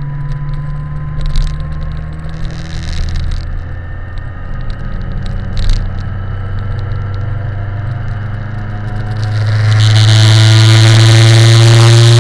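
BMW K1100LT motorcycle's inline-four engine running under way, with a few short knocks in the first half. About three-quarters of the way in it gets much louder, with a rushing noise over it, and the engine pitch climbs slowly as the bike accelerates.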